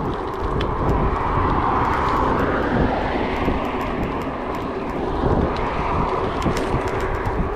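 Gravel bike rolling over a gravel track: steady tyre and wind rumble with scattered sharp clicks and ticks from stones and the bike.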